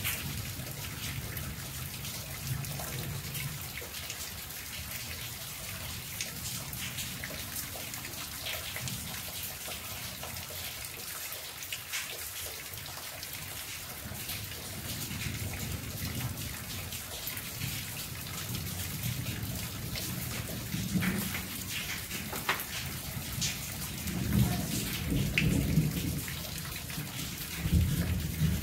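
Steady rain falling, a constant hiss with many separate drops ticking. Low rumbles come and go and grow louder in the last few seconds.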